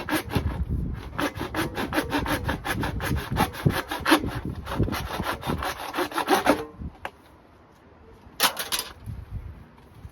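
Hand saw cutting with fast, steady back-and-forth strokes that stop about two-thirds of the way through, followed by one short scrape near the end.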